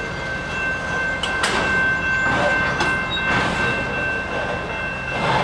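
Canadian Pacific freight train creeping along at low speed: a steady high-pitched squeal from the train over a low rumble, with a few clanks of the cars.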